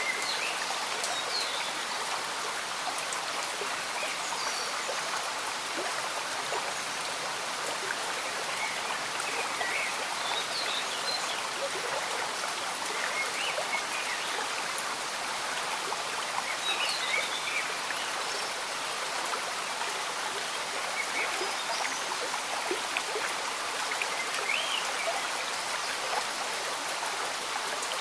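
Slow-moving stream bubbling under gentle rain: a steady, even wash of water, with short, faint high chirps scattered through it.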